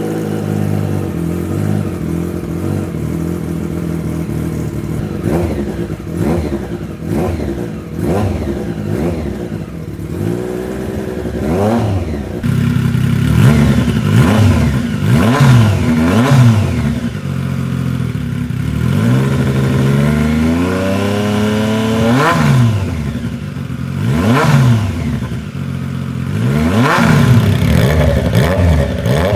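Triumph Street Triple 765 RS's inline three-cylinder engine running through an SC Project 3-1 full exhaust with CRT muffler: idling steadily for about ten seconds, then revved in a series of throttle blips, each rising and falling in pitch.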